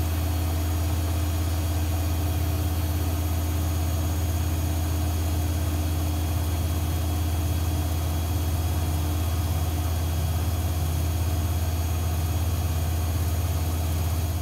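AEG Lavamat 1400 washing machine running with a loud, steady low hum and no change in pitch, which cuts off just after the end.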